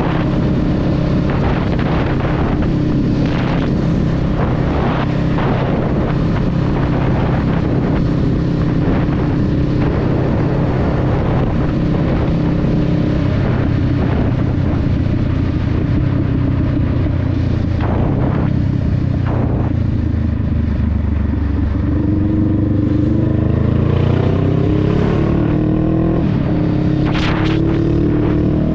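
Honda Rebel 500's parallel-twin engine running at a steady cruise while riding. About three quarters of the way in, its pitch climbs as the bike accelerates, with a brief step near the end like a gear change.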